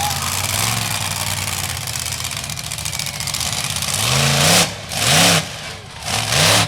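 Monster truck engine running steadily, then revved hard in three short bursts near the end, the pitch climbing and dropping back each time.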